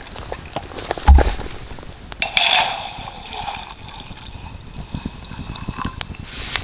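A deep thud, then about a second and a half of water splashing or sloshing, with small clicks and knocks around it.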